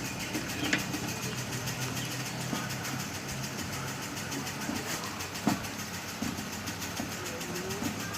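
A motor or engine running steadily, with a few faint clicks.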